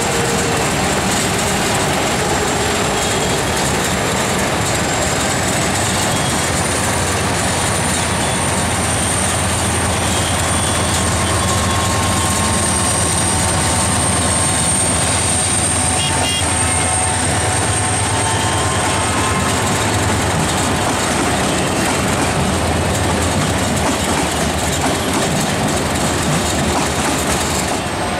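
Passenger train rolling slowly through a station yard: the carriages' wheels clatter over rail joints and switches, a steady low drone runs beneath, and a thin high whine is held through most of it.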